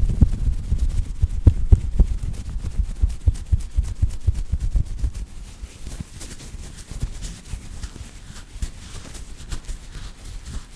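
Hairband being squeezed and rubbed for ASMR, making rapid irregular low thumps and rustles. The thumps are louder and denser in the first half, then give way to softer, crisper rustling.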